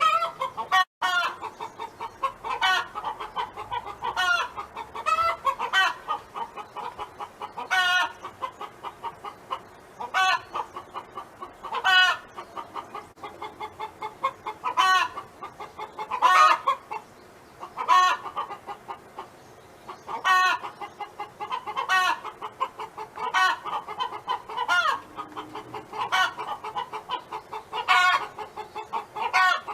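Domestic hen clucking continually in its 'song', a run of quick clucks with a louder drawn-out call every couple of seconds.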